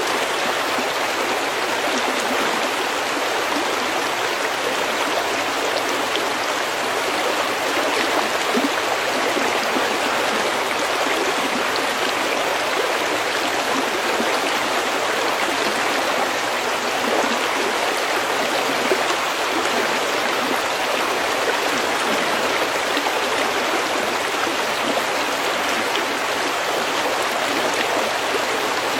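Snowmelt stream flowing over pebbles, a steady, even rushing and babbling of water.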